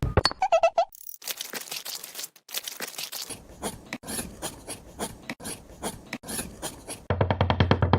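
Rapid scraping and rasping strokes. About seven seconds in they give way to a faster, regular rattle over a low hum.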